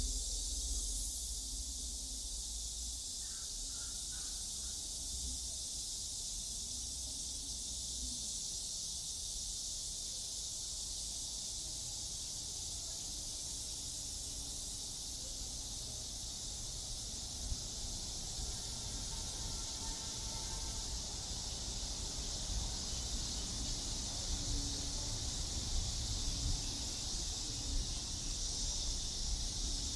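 Steady high-pitched buzzing of a summer insect chorus, with a low rumble underneath and a few soft knocks in the second half.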